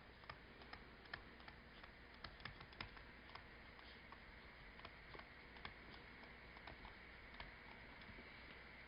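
Near silence: faint room tone with a low hum and scattered, irregular small clicks, a few to several a second.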